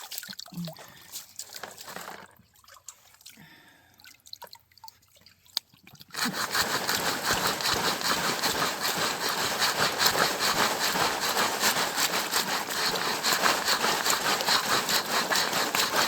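Shallow creek water trickling and splashing. About six seconds in, a sudden steady rattling wash starts as a sifting screen of creek gravel and pebbles is shaken in the water.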